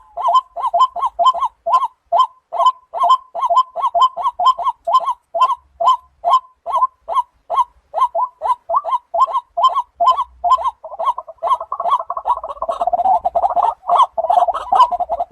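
Waterhen calling: a long run of short, repeated call notes, about three a second, that thickens into a denser, overlapping chatter about twelve seconds in.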